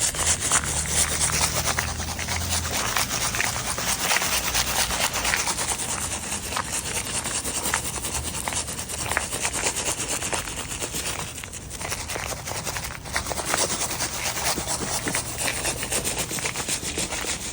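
Rock salt being scattered over snowy steps and pavement: a continuous gritty hiss of many fine ticks as the grains land, with brief lulls a little past the middle.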